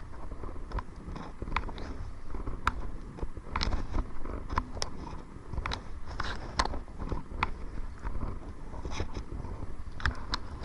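Kayak paddling: a run of short, irregular clicks, knocks and splashes from the paddle and the water, a few each second, over a steady low rumble.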